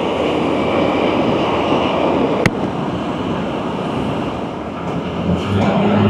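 Wind rush and road noise of a Can-Am Spyder RT three-wheeler under way, with one sharp click about halfway through. Near the end a steady engine hum comes up under the wind.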